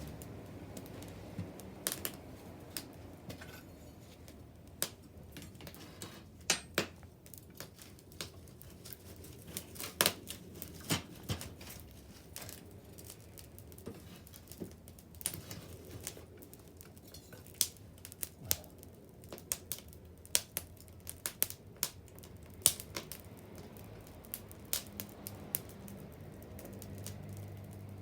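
Wood fire crackling, with irregular sharp pops and snaps over a low steady hiss of burning.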